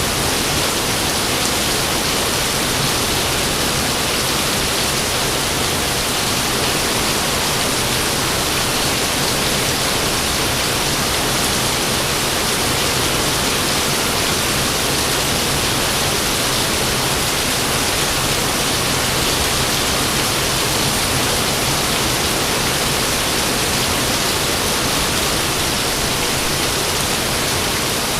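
Steady heavy rain, a dense even hiss with no thunder.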